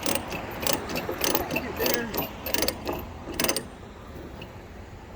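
Rapid, irregular metallic clicks of a ratchet mechanism being worked, stopping a little past halfway.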